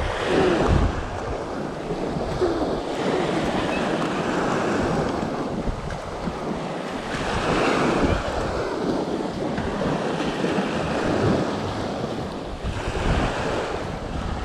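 Choppy waves washing against the shore at high tide, the noise swelling and easing every few seconds, with wind buffeting the microphone.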